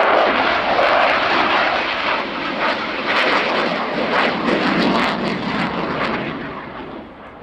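Jet noise from a Lockheed Martin F-22 Raptor's twin afterburning turbofan engines as the fighter flies its display, a loud crackling roar that fades near the end as it draws away.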